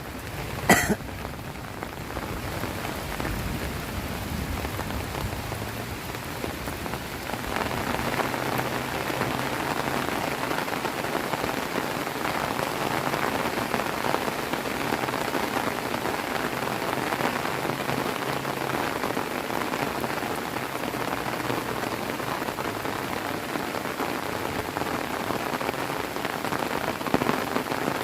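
Heavy rain falling steadily, getting heavier about seven seconds in, with one short sharp sound just under a second in.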